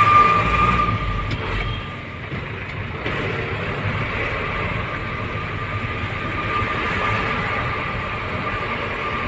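Steady running noise of a moving truck: a continuous rush of road and engine noise with a thin steady whine over it.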